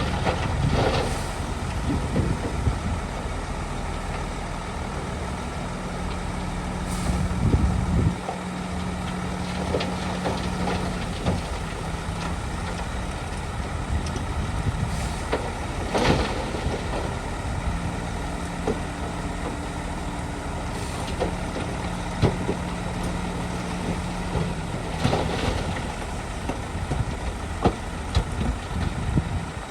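Heavy diesel earthmoving machinery running steadily, its engine note shifting a few times, with a few short sharp clanks or hisses scattered through.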